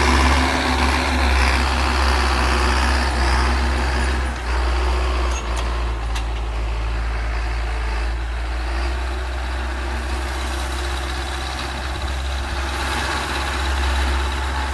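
Belarus MTZ 820 tractor's four-cylinder diesel engine running steadily under load while pulling a four-furrow plough, a continuous low drone with two brief dips about four and five and a half seconds in.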